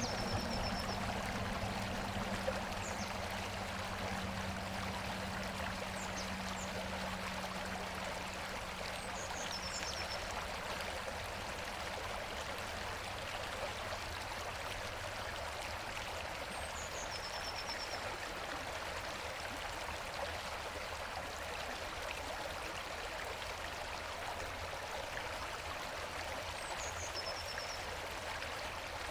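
Ausable River water flowing steadily over rocks, a constant even rush of water. A bird's short high song, a few quick notes and a brief trill, comes about four times, roughly every eight to nine seconds.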